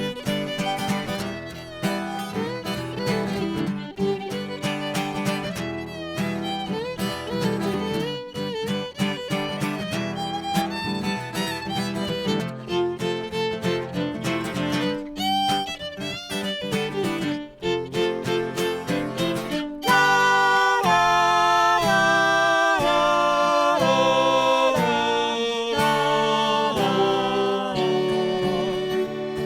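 Instrumental break of a country-bluegrass song played live: guitar strumming a steady rhythm under a fiddle melody. About two-thirds of the way through, the fiddle line turns louder and more sustained.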